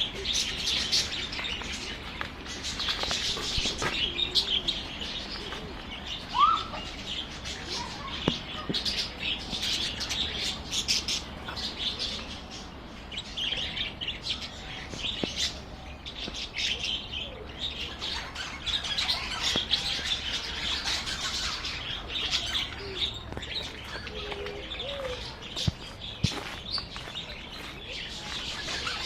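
A flock of budgerigars and parakeets chirping and chattering, many short high calls overlapping without a break.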